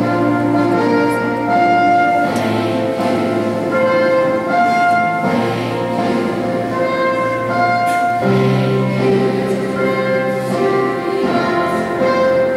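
Orchestral music with brass, playing slow held chords that change every two to three seconds.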